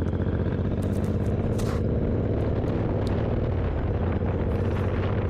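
Suzuki Boulevard M109R's 1783 cc V-twin engine running at a steady pitch while the bike cruises.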